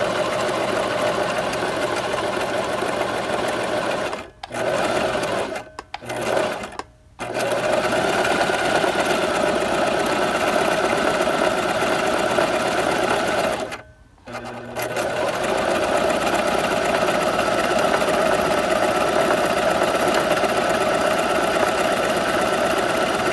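Electric sewing machine running at a steady speed, stopping briefly three times between about four and seven seconds in and once more about halfway through, each time starting straight back up.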